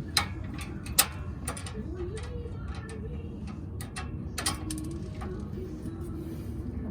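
Irregular metallic clicks and clinks of hand tools and nuts and bolts being handled while an exhaust is bolted back together. The two sharpest clicks come just after the start and about a second in, over a steady low rumble.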